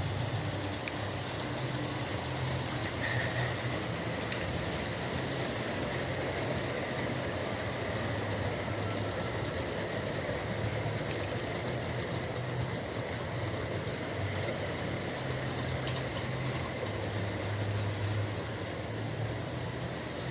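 Bachmann G scale 4-6-0 model locomotive running steadily around the track hauling a long 17-car train: the even hum of its motor and gears with the rolling noise of many wheels on the rails.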